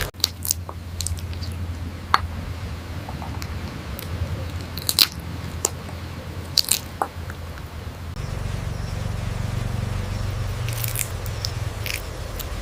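Irregular sharp clicks and crunches of a parrot biting and chewing, over a steady low hum.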